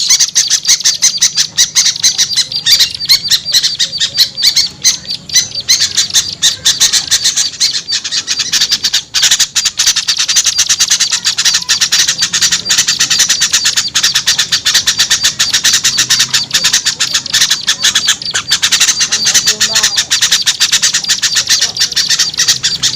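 Bird-lure recording of a noisy mixed chorus of small songbirds such as bulbuls: dense, rapid, overlapping chattering calls with no let-up.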